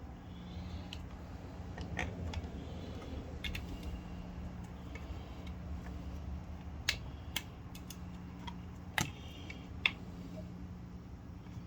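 Septic aerator air pump running with a steady low hum, while small parts and tools are handled with scattered sharp clicks and taps, three of them louder in the second half.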